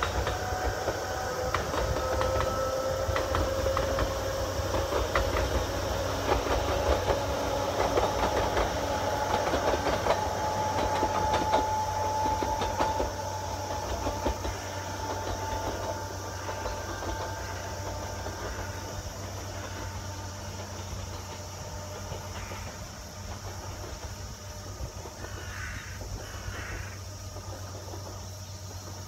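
Sangi Railway Hokusei Line narrow-gauge electric train running past, its wheels clicking over rail joints under a rising whine. It is loudest in the first half and fades as the train draws away. Crows caw near the end.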